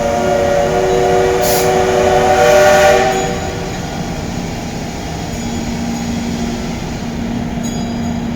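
A long blast of a train horn, several tones sounding together, cutting off about three and a half seconds in; then the steady rumble of a train moving off with a low hum.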